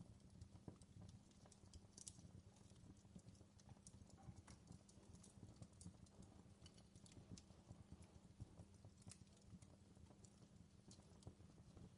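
Faint wood fire crackling in a fireplace: irregular sharp snaps and pops over a low steady rumble.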